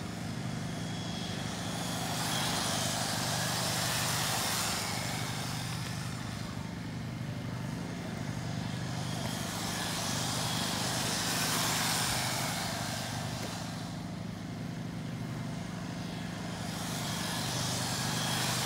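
A pack of electric 1/10-scale RC stock cars running laps, their motor and gear whine and tyre hiss swelling and fading about every seven seconds as the pack passes, over a steady low hum.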